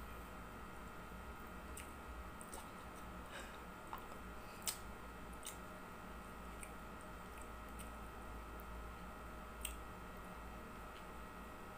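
Faint close-up eating sounds: a person chewing dried fish and fried rice eaten by hand, with soft mouth noises and scattered small clicks, the sharpest a little before halfway. A steady low hum lies underneath.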